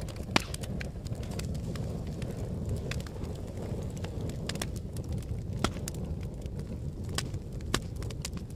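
Fire crackling: a steady low rumble of flames with irregular sharp pops and snaps scattered throughout, a few louder ones standing out.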